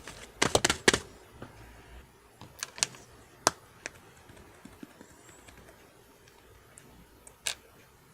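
Slime being squeezed and poked, giving sharp sticky clicks and pops: a quick run of clicks in the first second, then a few scattered single pops that thin out toward the end.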